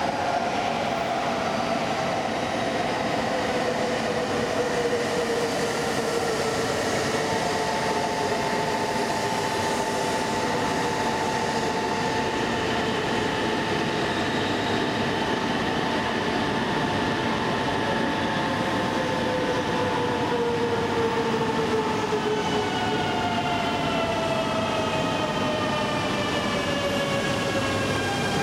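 Steady train noise at a Shinkansen platform, with an E2 series 1000 Shinkansen standing and its equipment running: a continuous rumble and hiss with machine tones, some sliding down in pitch. In the last few seconds a stack of several tones falls together.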